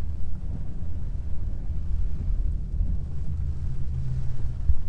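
Four-wheel-drive pickup truck driving: a steady low rumble of engine and road noise, with a faint hum a little past the four-second mark.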